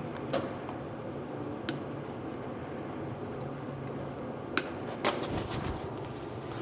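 Steady workshop background hum with a few short, sharp clicks and light knocks of tools or parts being handled, two of them close together about five seconds in.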